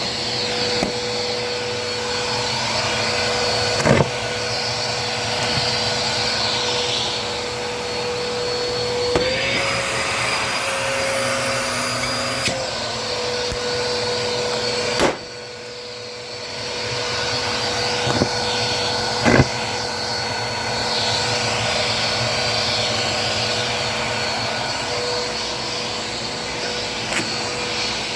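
Bissell vacuum cleaner running steadily on carpet. Its motor tone rises in pitch for a few seconds in the middle, then settles back. Three sharp knocks or pops break through, at about 4, 15 and 19 seconds.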